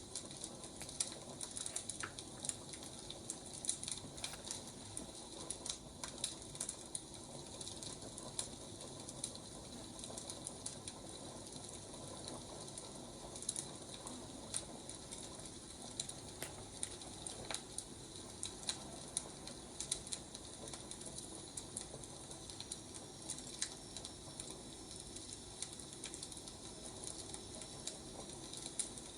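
Wood fire crackling, with irregular sharp pops and snaps over a steady soft hiss.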